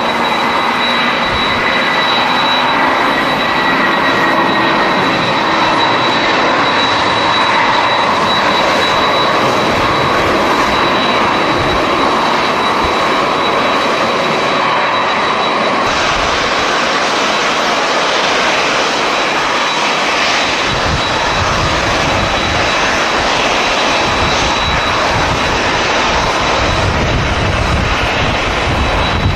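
Jet airliner engines running with a loud, steady roar and a high, held whine. Irregular low gusts of wind buffet the microphone through the second half.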